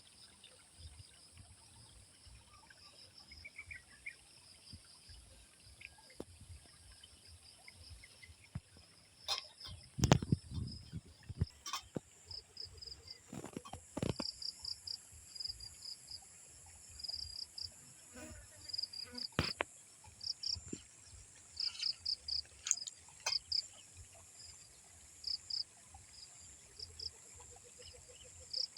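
Insects chirping in short repeated pulses over a steady high-pitched insect hum. A few knocks and thumps fall among them, the loudest about ten seconds in.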